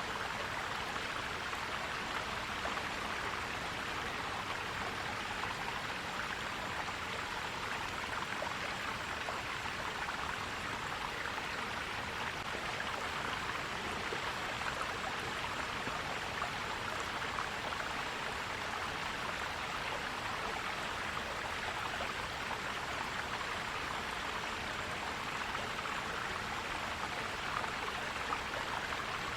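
Forest stream flowing and gurgling in a steady, unbroken rush.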